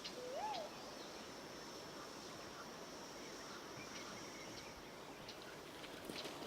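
A single whistled bird note, rising then falling, just after the start. Under it runs a steady, thin, high-pitched insect drone that stops about five seconds in, over faint outdoor ambience.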